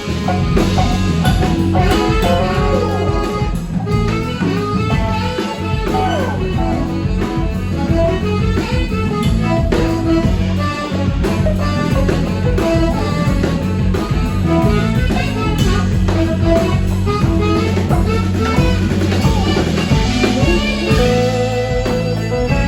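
Live band playing an instrumental passage: electric guitar lead lines over bass and drum kit, in a blues-rock style.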